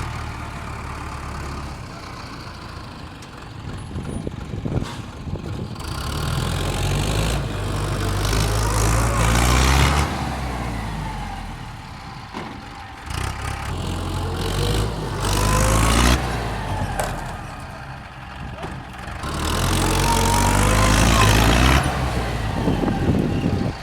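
Mahindra tractor's diesel engine revving hard three times in long surges, each building up and then dropping back toward idle.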